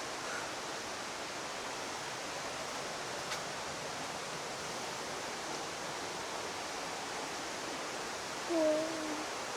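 Steady rushing of falling water from an indoor rainforest waterfall, an even hiss with no breaks.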